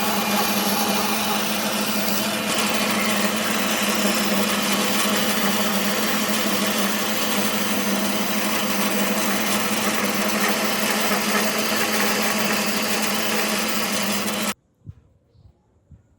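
A woodworking power tool running steadily at constant speed, stopping abruptly near the end; a few faint knocks follow.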